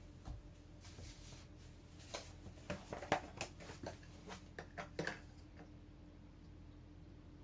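A quick run of light, irregular clicks and knocks, like things being handled, over a faint steady hum.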